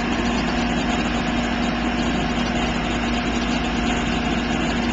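Fire engine's engine running steadily with a constant drone while the truck is spraying water.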